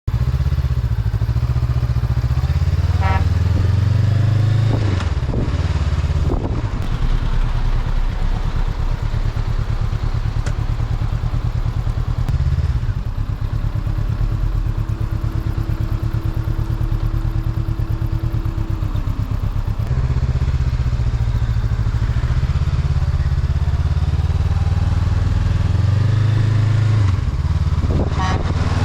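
2022 Honda CB500X's parallel-twin engine running under way, its note stepping up and down several times as the bike changes speed.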